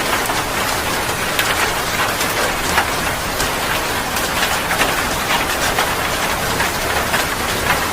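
Heavy rain falling steadily, a dense hiss of drops striking surfaces with many small splashes through it.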